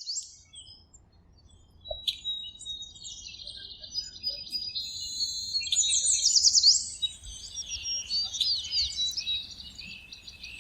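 Several birds singing together: a chorus of high chirps, trills and quick falling whistles, busiest in the middle.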